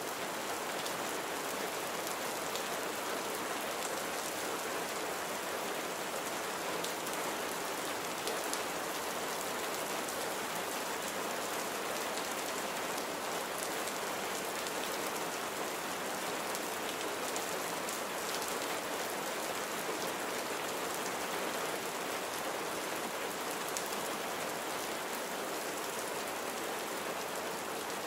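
Steady rain falling on surfaces, with a dense even patter of drops and no thunder.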